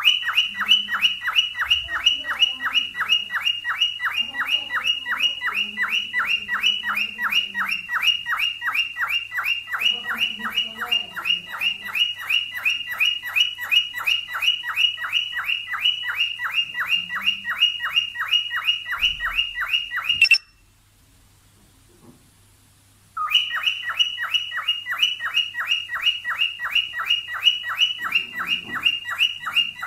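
Cockatiel mating call: one short high chirp repeated rapidly and very evenly, about four to five times a second. It stops for about three seconds two-thirds of the way through, then starts again.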